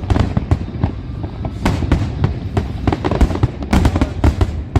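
Aerial fireworks display: a rapid, irregular volley of shell bursts and sharp bangs, several a second, over a continuous low rumble.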